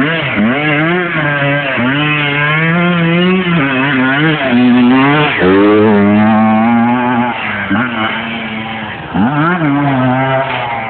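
Old dirt bike engine revving under way, its pitch climbing and dropping back several times as the throttle opens and closes or the gears change.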